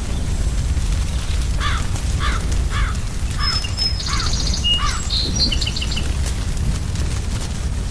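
Birds calling over a steady low rumble: a run of about six falling calls roughly half a second apart, then higher chirps and a short rapid trill in the middle.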